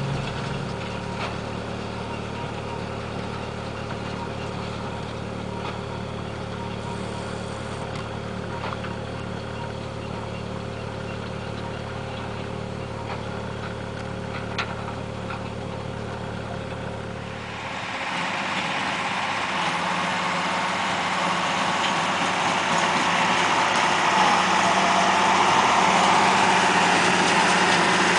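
IH 3388 2+2 tractor's diesel engine idling steadily. About 18 seconds in, the sound changes abruptly: the low hum drops away, and a higher-pitched engine sound grows slowly louder.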